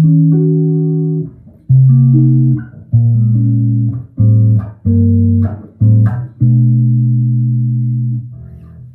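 Birdsong Hy5 31-inch-scale five-string electric bass played through an amp: a run of chords high up the neck, about eight plucks each dying away, the last left to ring for a couple of seconds before it fades near the end.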